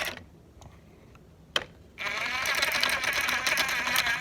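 A small toy spinning device, mixer-like, with water beads and water inside, is switched on with a click and runs with a loud, fast rattling whir from about halfway in.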